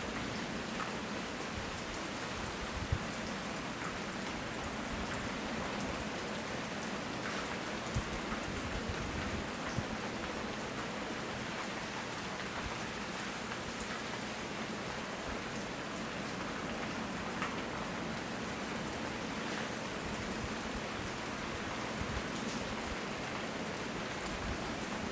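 Steady rain falling and pattering on surfaces, with a few sharper drop hits standing out now and then.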